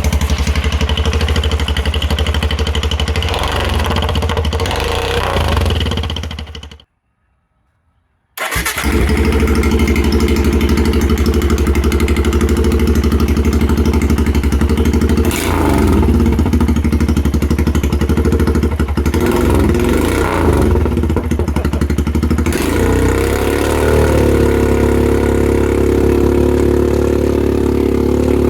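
Royal Enfield Himalayan single-cylinder engine running through an aftermarket performance exhaust, idling loudly. About seven seconds in the sound dies away to silence. Roughly a second and a half later the engine fires up again and idles, with short throttle blips and a held higher rev near the end.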